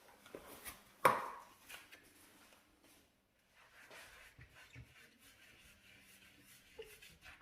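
Stove and oven cleaning: a sharp knock, as of a tool or bottle set down hard, about a second in, then quiet scrubbing and rubbing with scattered small clicks.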